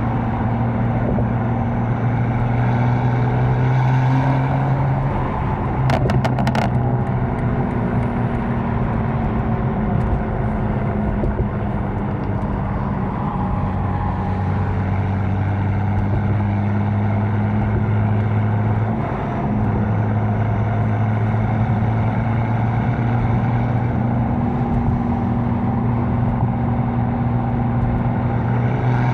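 Catless BMW M4's twin-turbo inline-six droning at a steady cruise, its pitch dropping a little about halfway through. A short burst of clicks about six seconds in.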